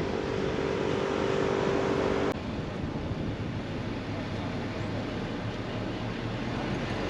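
Steady outdoor vehicle noise. A steady hum layered over it cuts off abruptly about two seconds in, leaving only an even rushing noise.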